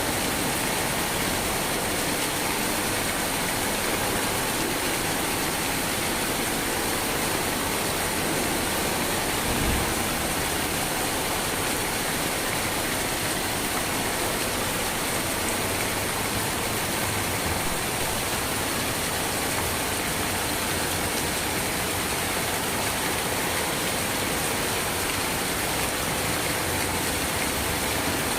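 Steady, continuous rain noise, an even hiss that does not change, with one brief low thump about ten seconds in.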